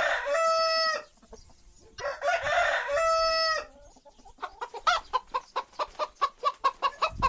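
Chicken calling: two crows, each ending in a long held note, then a rapid run of short clucks at about five a second from a little past halfway.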